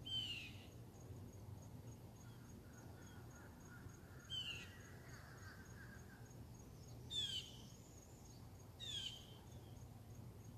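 Bird calls outdoors: four short, falling notes, each a little under a second long, spaced a few seconds apart. Under them runs a faint, high insect pulsing in even beats, about four a second, over a steady low hum.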